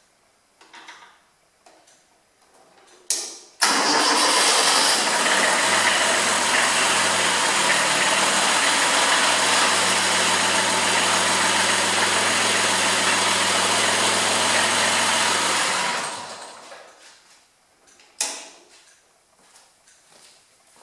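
Kubota B7001 tractor's small diesel engine started with a brief knock and catching at once, running steadily for about twelve seconds to work the hydraulic lift, then shut off and running down over a second or so. A single sharp click follows near the end.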